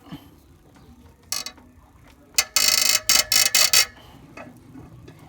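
Ratchet wrench clicking in short runs, a brief one about a second in and a louder run of several strokes from about two and a half to four seconds, as a rusty exhaust bolt is worked.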